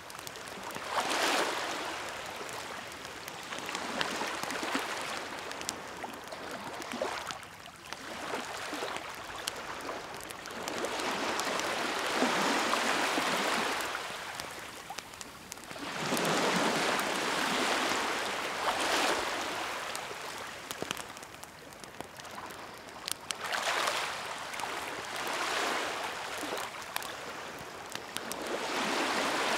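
Sea waves washing onto the shore, surging and receding every few seconds, with the faint crackle and pops of a wood bonfire.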